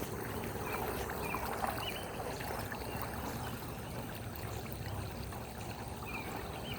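Pooled floodwater swirling and draining through a clogged roadside storm-drain grate, a steady rush of water.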